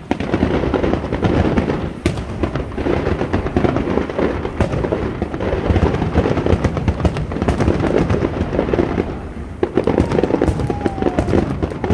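Fireworks display: a dense, continuous barrage of crackling pops and bangs, easing briefly before picking up again near the end.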